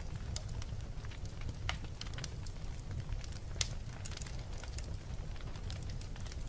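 Wood fire burning in a fireplace: a steady low rumble with irregular sharp crackles and pops, the loudest pop about halfway through.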